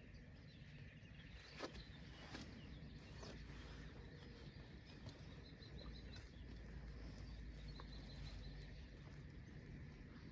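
Quiet outdoor ambience with a low rumble, faint bird chirps in quick short runs twice, and a couple of light clicks near the start.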